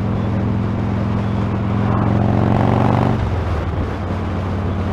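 Motorcycle engine and exhaust running steadily under wind noise on a helmet-camera mic. The engine note grows louder for about a second and then drops off sharply about three seconds in.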